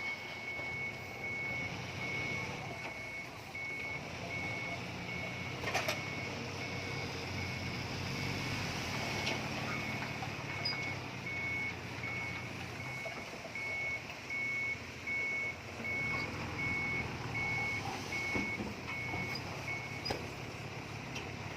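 Reversing alarm on heavy earth-moving equipment, one high beep repeating at an even pace, over a diesel engine running low; the beeping stops near the end. A sharp knock sounds about six seconds in.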